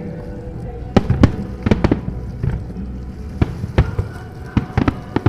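Aerial firework shells bursting in a display, about ten sharp bangs at uneven intervals.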